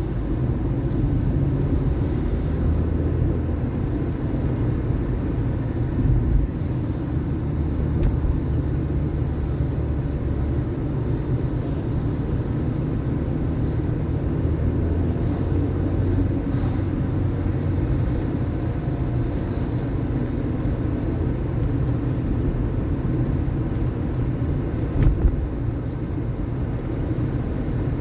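A car driving through city streets: a steady engine and road rumble that rises and falls in pitch with speed. There are a few short knocks, the loudest near the end, typical of the car going over bumps.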